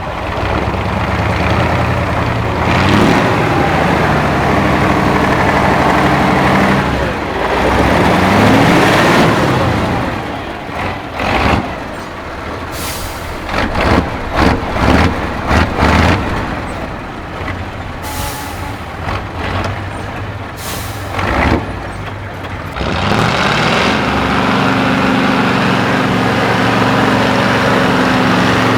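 Heavy Tatra 6x6 off-road truck's diesel engine working hard under load, revving up and down. Midway comes a string of short, sharp compressed-air hisses like air-brake releases. Near the end the engine settles into steady high revs.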